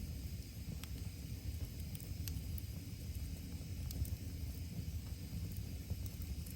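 Wood fire crackling, with a few sharp pops over a steady low rumble; the clearest pop comes a little over two seconds in.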